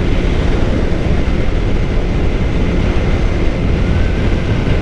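Suzuki GSX-R 600's inline-four engine running at a steady cruising speed, with a steady rush of wind and road noise.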